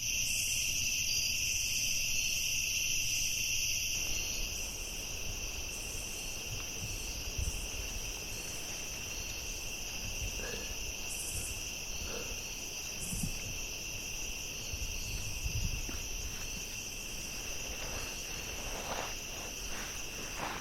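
A steady chorus of insects, crickets or similar, trilling without a break at two high pitches.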